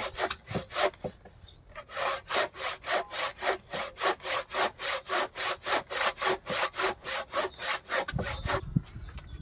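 Handsaw cutting through a 4-by-4-inch timber post, one rasping stroke after another at about four a second. There is a short pause about a second in, and the sawing stops shortly before the end.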